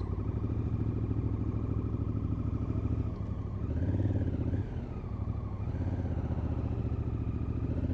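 Motorcycle engine running steadily at low speed, with a brief rise and fall in engine speed a few seconds in.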